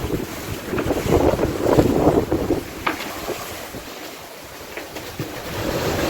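Wind buffeting the microphone over the rush of waves against a sailing yacht under way in a rough sea, gusting loudest a second or two in.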